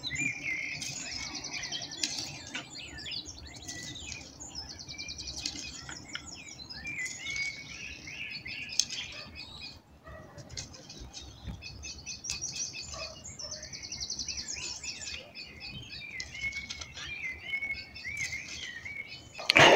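Small songbirds chirping and trilling, many short calls and rapid trills overlapping throughout, with one short knock about nine seconds in.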